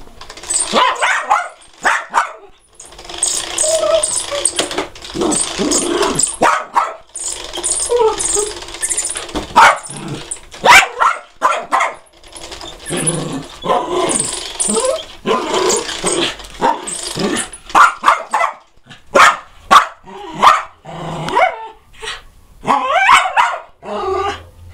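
Jack Russell terrier barking over and over at a vacuum cleaner. The vacuum's motor runs as a steady hiss in stretches of a few seconds, stopping in between, while the barks continue.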